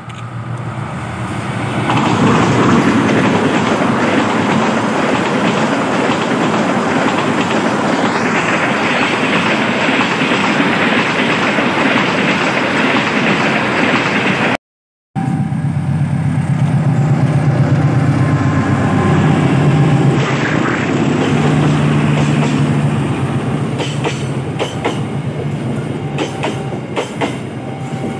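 A train passing close by: a loud, steady rush of wheels and running gear that swells in over the first two seconds. It cuts out for a moment midway, then carries on with a low steady hum and wheel clicks over the rail joints, easing off toward the end.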